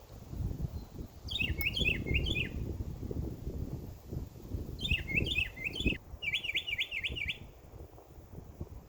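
A songbird singing two phrases of quick, repeated chirping notes, one about a second in and another around five seconds that runs on into a fast trill, over a low rumbling noise.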